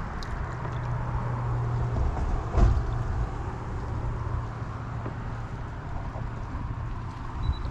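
Boat motor running steadily at low speed with a low hum while the boat cruises slowly. A single knock about two and a half seconds in.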